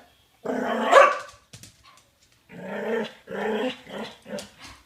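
A dog growling and barking in bursts: one long, loud growl-bark about a second in, then a quick string of shorter growling barks in the second half.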